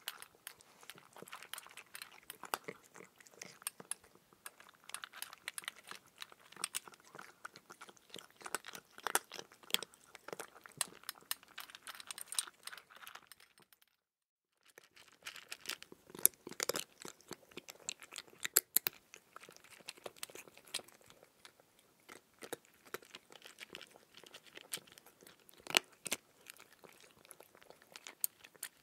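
A person chewing raw cucumber: a steady run of crunches and crackles, broken by a moment of dead silence about halfway through.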